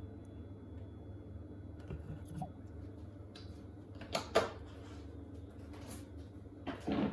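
Two short knocks about four seconds in and a clatter near the end, from handling around a washing machine being set up, over a steady low hum.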